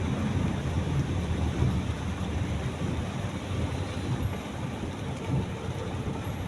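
Heavy rain falling on a moving car, mixed with the car's low road rumble: a steady rushing noise with a rapid, uneven flutter down low.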